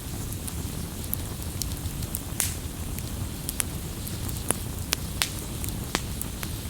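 Wood campfire crackling: scattered sharp pops and snaps, several louder ones in the second half, over a steady low rumble and hiss of the burning fire.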